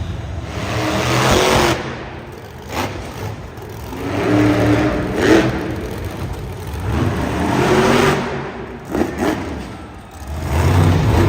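A monster truck's engine revving hard in repeated surges, rising and falling in pitch and loudness every few seconds, with a few short sharp knocks in between.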